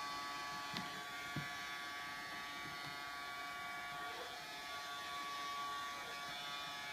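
Vacuum cleaner running steadily, its motor giving an even whining hum, with two light knocks about a second in.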